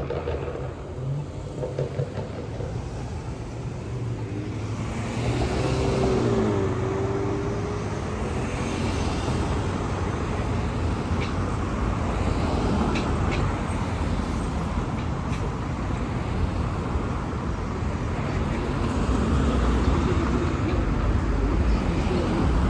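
Road traffic going by: engines and tyres of passing vehicles, with a short wavering tone about five seconds in and the noise growing louder near the end as a vehicle approaches.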